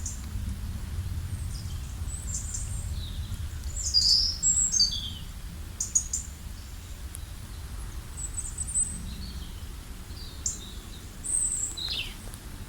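Small birds chirping and calling in short, high notes, some sliding down in pitch, loudest about four seconds in, about six seconds in and near the end, over a steady low rumble.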